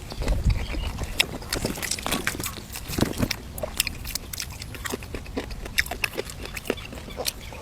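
A person chewing and biting food close to the microphone: a steady run of short, irregular mouth clicks and smacks.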